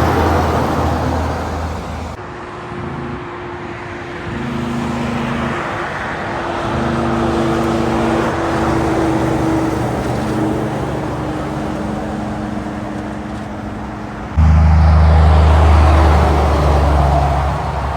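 Heavy trucks driving past on a highway: a steady engine drone over tyre and road noise. The sound drops suddenly about two seconds in and jumps up loud again near the end.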